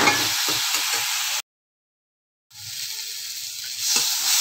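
Masala sizzling in an aluminium kadai while a spatula scrapes and stirs it in quick strokes; the sound cuts out completely for about a second, then the sizzling comes back, softer at first and louder near the end.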